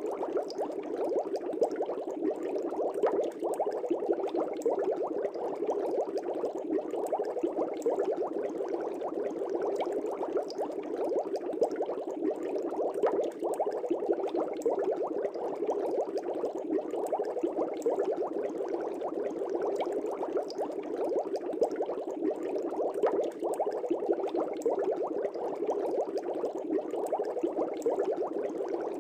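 Air bubbles streaming up through an aquarium tank: a steady, dense bubbling made of many small pops that keeps on without a break.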